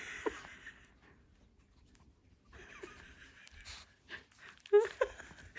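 Pomeranian sniffing and snuffling at a clump of fur, in two noisy stretches, with a voice starting near the end.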